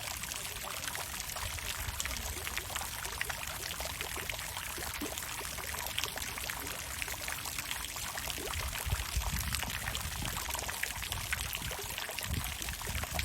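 Water fountain splashing and pouring steadily, with a heavier low rumble of falling water a couple of times in the second half.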